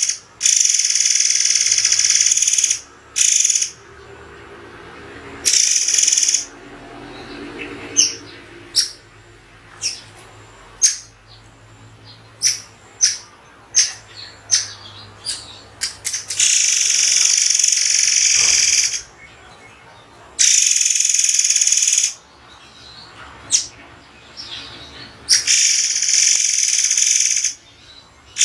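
Murai air (white-crowned forktail) calling: long, high, hissing screeches lasting one to three seconds each, with a run of about a dozen short, sharp, spaced notes in the middle.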